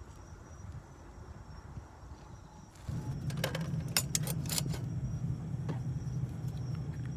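Faint insect chirping over a low rumble. About three seconds in, a louder steady low rumble begins, with scattered sharp crackles and clicks.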